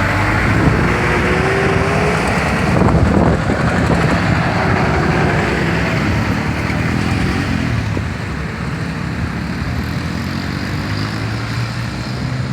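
Motor vehicles running close by: a loud, steady rumble of engines and road noise with a low engine hum, and a short rising tone about a second in.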